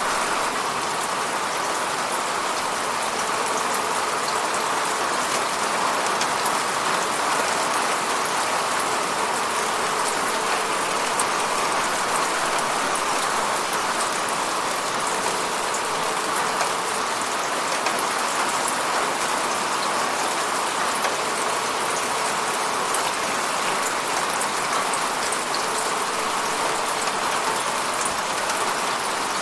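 Steady rainfall: an even hiss of rain with fine scattered drop patter, unchanging throughout.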